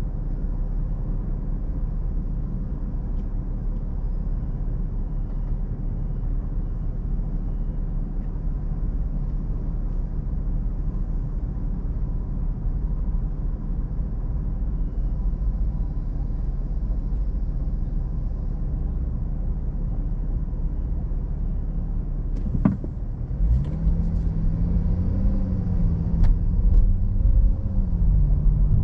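Car engine idling with a steady low rumble, heard from inside the car. About 23 seconds in there is a click, then the engine note rises as the car pulls away and accelerates.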